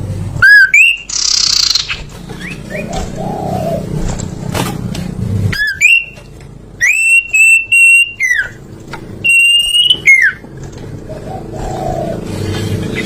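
Songbird singing loud, clear whistled notes: short hooked whistles with a harsh rasping burst about a second in, then long held whistles that slide down at their ends, over a steady low background hum.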